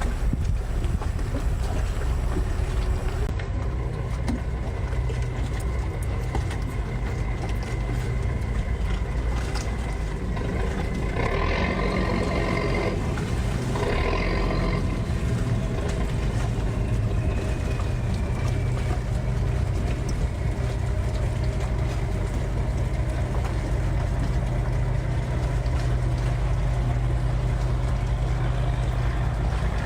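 A boat engine running steadily with a low, even hum. Midway there is a brief higher-pitched sound over it.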